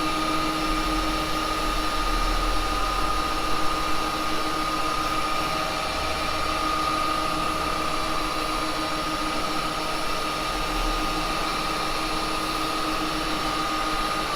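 Axminster 1628 wood lathe running steadily at about 1950 rpm with a steady whine, while a rag is pressed onto the spinning cherry to burnish in beeswax.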